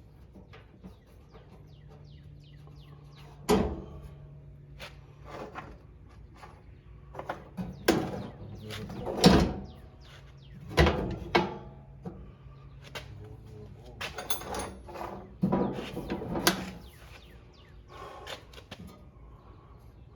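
A series of irregular knocks and clatters from tools and parts being handled, the loudest about nine seconds in, over a faint steady hum.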